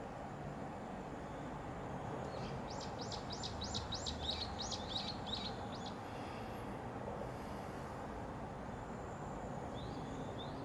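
Common kingfisher giving a rapid series of about a dozen shrill, high whistled notes, roughly four a second, over a steady background hum, with one short rising call near the end.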